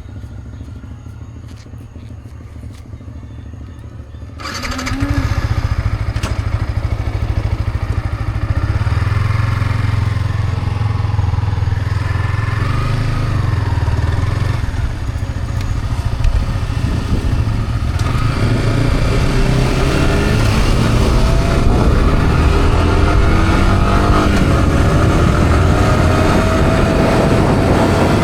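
Yamaha R15 motorcycle's single-cylinder engine through its stock exhaust: it starts with a sudden jump in level about four seconds in and then runs, its pitch rising and falling repeatedly in the second half.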